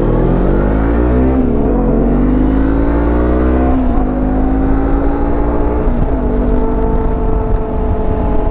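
Motorcycle engine accelerating through the gears: its pitch climbs and drops sharply at three upshifts about two seconds apart, then holds steady at cruising speed.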